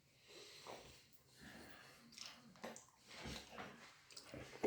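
Faint, scattered chewing and soft mouth clicks of someone eating.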